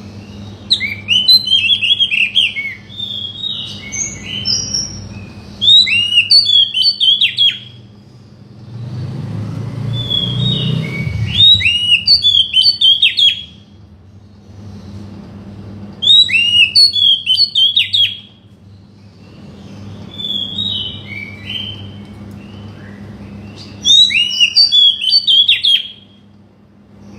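Oriental magpie-robin (kacer) song: bursts of loud, quick whistled and chattering phrases about two seconds long, repeating every few seconds, over a faint steady low hum.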